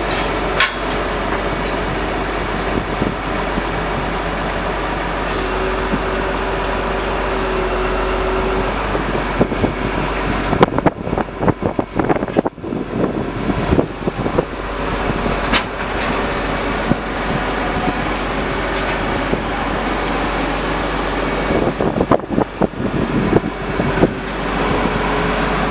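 Vehicle engine running steadily, with irregular knocks and clanks from about ten seconds in.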